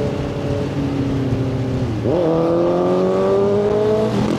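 Motorcycle engine under way; its revs drop sharply with a gear change about two seconds in, then climb steadily as it pulls in the next gear, dropping again near the end.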